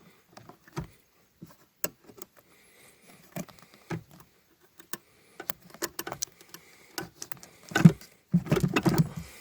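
Scattered light clicks and rattles of small parts and plastic being handled. The handling grows busier and louder in the last second and a half.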